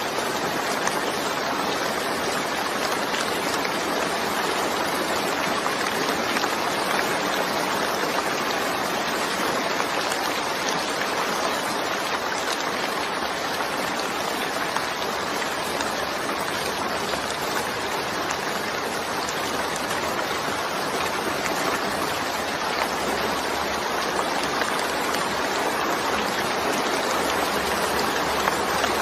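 Steady, even rain, a constant hiss of falling rain with no distinct drops or breaks.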